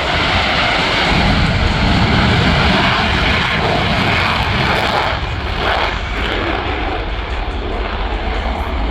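A US Air Force F-22 Raptor's jet engines, heard loud and steady as the fighter flies its display, easing off slightly about halfway through.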